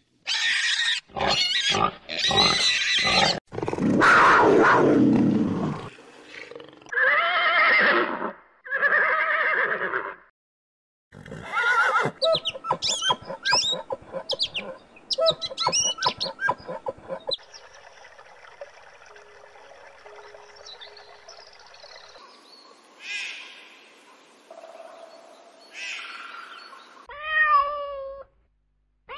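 A run of different animal calls, one after another: piglets squealing loudly at the start, then several other pitched animal calls, and a cat meowing near the end.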